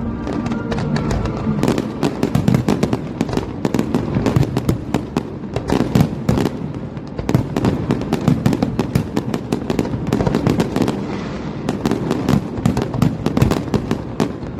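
Fireworks display: a dense, rapid barrage of crackling bangs and pops, easing briefly about seven seconds in before picking up again.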